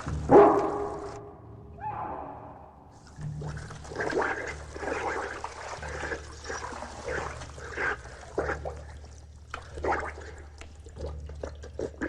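A dog struggling to stay afloat in a water tank, splashing and gurgling as it tires. There is a loud strained cry about half a second in and a weaker falling one near two seconds, then irregular splashing.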